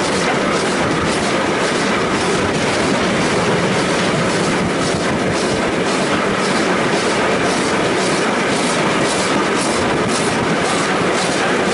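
Steam-hauled passenger train running along the line, heard from on board: a steady rumble with a regular clickety-clack beat of the wheels on the rails.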